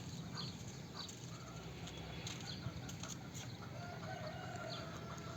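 Chickens clucking faintly over a low outdoor background, with a short drawn-out call near the end.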